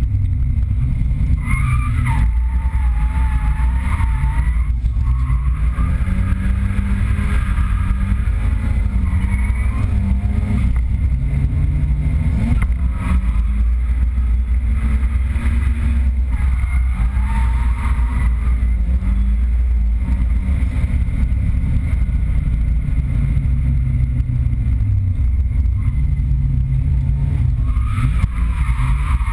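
Nissan 200SX drift car's engine heard from inside the cabin, revving up and falling back again and again through a drift run over a heavy low rumble. A few brief high wavering squeals come through now and then.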